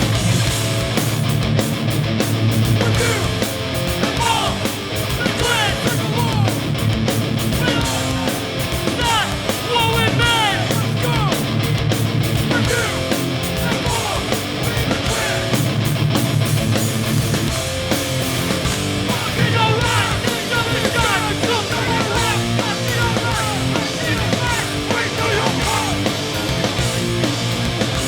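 A hardcore punk band playing live, with loud distorted electric guitars, bass and drums.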